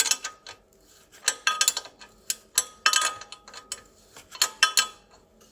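Ratchet wrench tightening the bolts on a rusty exhaust flange, clicking in short bursts with a light metallic ring, about four groups of clicks.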